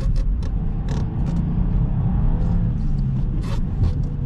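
Subaru WRX heard from inside the cabin, driving on a snowy road: a steady low rumble of engine and tyres, with several sharp clicks or knocks scattered through it.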